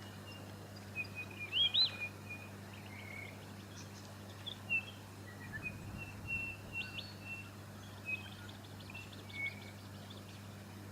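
White-fronted honeyeater calling in short, scattered high chirps and quick upswept notes, loudest about two seconds in. A steady low hum runs underneath.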